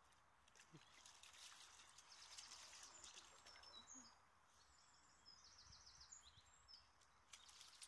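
Near silence with faint birdsong: a small bird's high chirps and a quick trill in the middle stretch.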